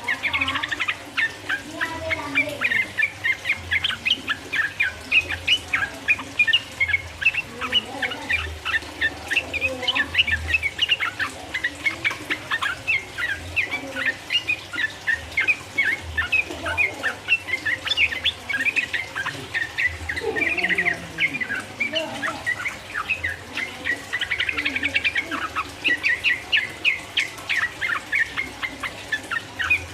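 Yellow-vented bulbul (trucukan) singing a fast, continuous run of bubbly chirping notes without a pause, the long 'ropel' song used as a lure to rouse other trucukan. Fainter low calls sound underneath.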